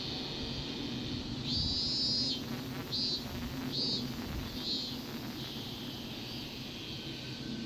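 Cicadas singing: a high, buzzing call that breaks into four or five short pulses roughly a second apart, then goes on as a fainter steady buzz.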